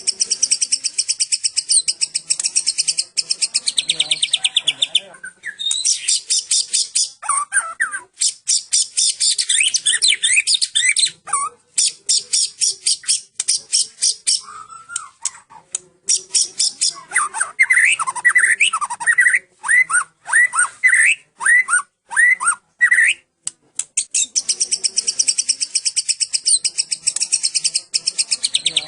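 White-rumped shama (Medan murai batu) singing continuously: long, very fast trills of high repeated notes, with a run of separate whistled up-and-down notes about midway. The song is the 'full cililin' type, the shama copying cililin notes.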